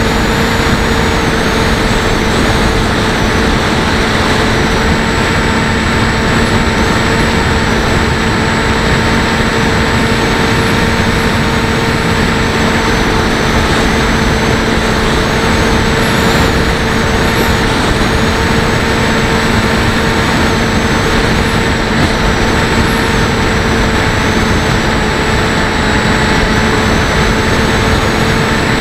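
Electric motor and pusher propeller of a Bixler 1.1 RC plane running at a steady throttle in flight, a steady whine over heavy wind rush on the onboard camera's microphone.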